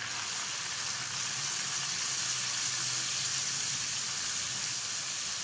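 Tomato paste sizzling steadily in hot oil in a kadai while a spatula stirs it.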